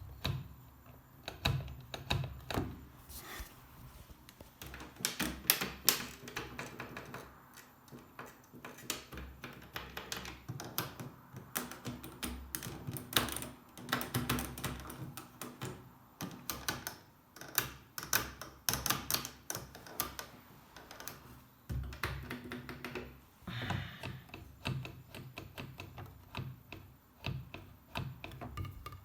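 Rapid, irregular plastic clicks and knocks as a washing machine is handled, its buttons pressed and its stuck lid worked at.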